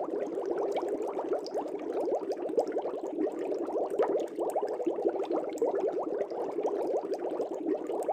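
Air bubbles streaming up through fish-tank water: a steady, dense run of many small, quick bubble sounds.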